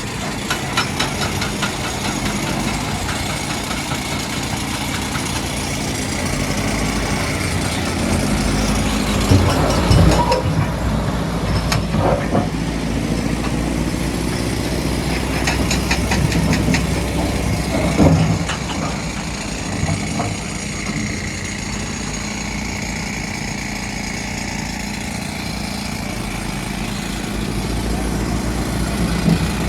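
Heavy diesel machinery running steadily, with several loud knocks and clanks partway through and short runs of rapid clicking.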